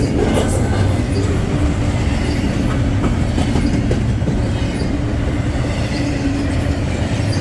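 Freight train cars rolling past at close range, steady rumble of wheels on rail with light clicking over the joints.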